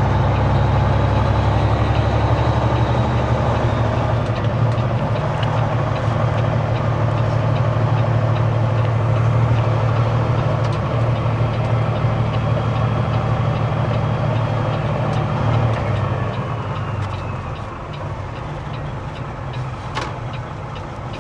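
Semi truck's diesel engine running steadily, heard from inside the cab; its low drone drops and grows quieter about sixteen seconds in.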